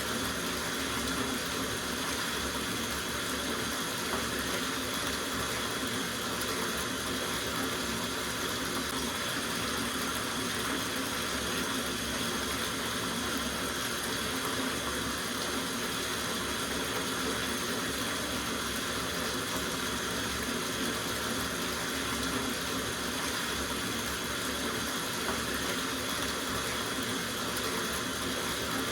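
Tap water running steadily into a soaking bathtub, an even splashing rush.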